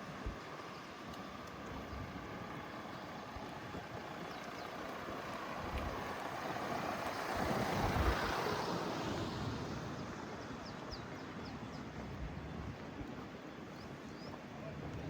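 Street ambience with a motor vehicle passing by: its noise swells to a peak about halfway through and fades away. Faint short high chirps come in near the end.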